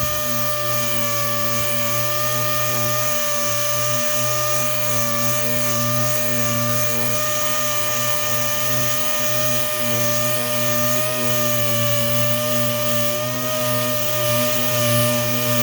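Dual-action orbital sander with 80-grit paper running at a steady pitch while sanding down oxidized car paint.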